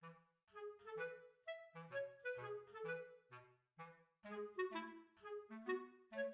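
Background music: a bouncy melody of short, detached notes in a clarinet-like woodwind timbre over a bass line.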